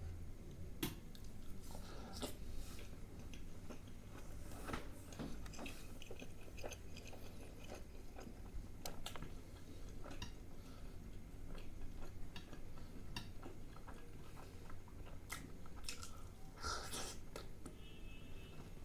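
Close-miked chewing of soft, wet Indian curry food: pakora in kadhi and bread dipped in curry, with many short, irregular clicks. One longer, louder noise comes about seventeen seconds in.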